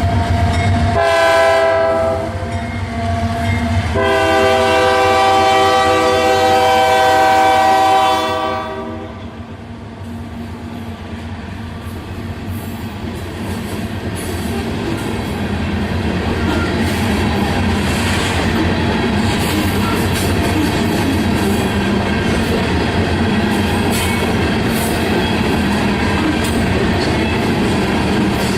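Diesel freight locomotive horn: a short blast, then a long blast of about four seconds, over the low engine rumble. The train then rolls past, wheels clicking over rail joints, growing louder.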